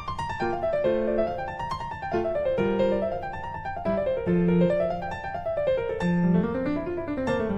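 Background piano music: quick flowing runs of notes rising and falling over steady bass notes.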